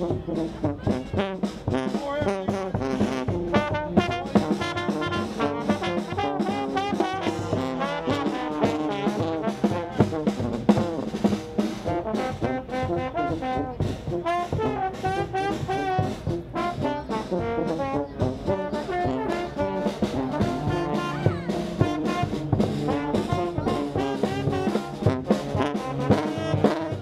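Marine Corps brass band playing a lively jazz-style tune, trombones and trumpets carrying the melody over sharp percussive hits.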